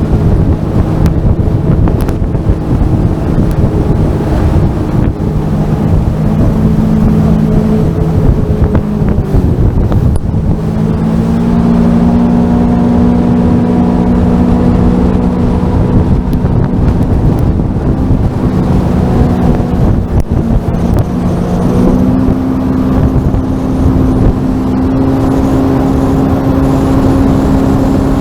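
Sea-Doo Fish Pro jet ski engine running at cruising speed, its tone stepping up a little about a third and two thirds of the way through, with wind buffeting the microphone.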